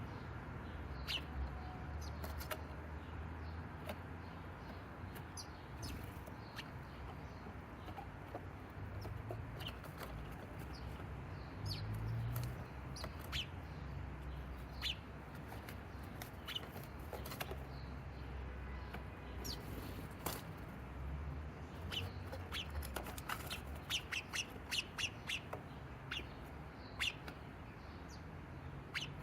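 Small birds chirping in short separate calls, thickening into a quick run of chirps near the end.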